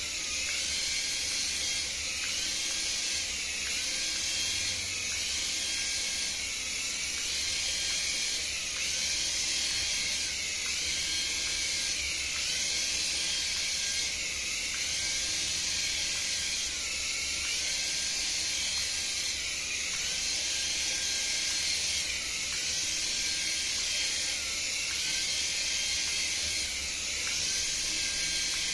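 Electronic sound effect from a battery-powered toy: a steady hiss with a faint warbling tone that dips and comes back about every second and a half.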